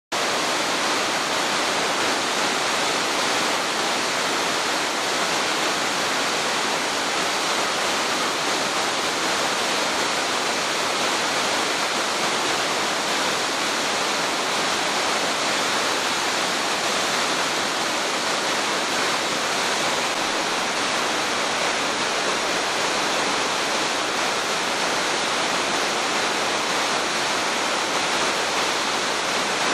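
Shirahige Falls, a waterfall dropping into a mountain stream's gorge: a steady, unbroken rush of falling water.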